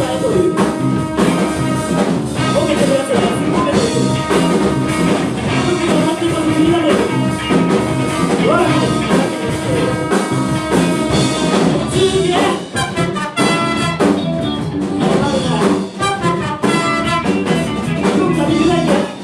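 Live band playing a funk number. About two-thirds of the way through, the playing turns to short, clipped hits.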